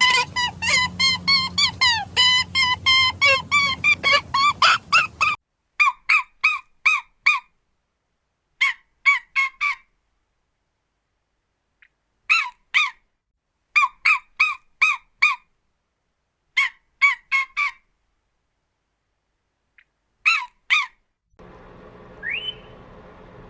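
Bird calls: a fast, dense run of short pitched calls, then groups of four or five short calls separated by silent pauses. Near the end a steady low hum comes in, with one short rising whistle.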